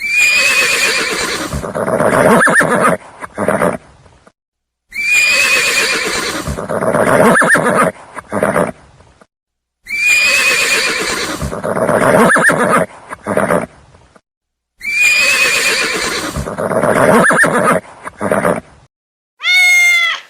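Horse whinnying, the same recorded call played four times, about every five seconds. A short cat meow starts in the last second.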